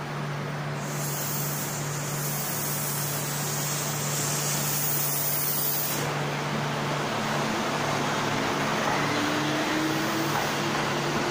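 Kintetsu 15200 series limited-express electric train at a platform. A long hiss of air cuts off suddenly about six seconds in, and then the train pulls away, its motors giving a slowly rising whine as it gathers speed, over a steady low hum.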